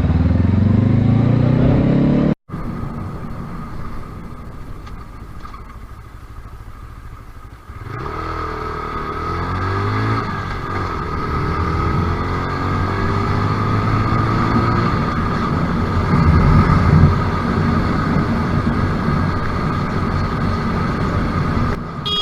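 Motorcycle engine accelerating, its pitch rising. The sound cuts off sharply about two seconds in. After a quieter stretch the engine picks up again about eight seconds in, climbing in pitch and then running on steadily.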